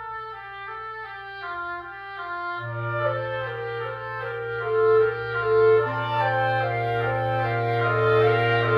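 Wind quintet playing a chamber piece: several woodwind lines, clarinet most prominent, move over a sustained low note that comes in about two and a half seconds in.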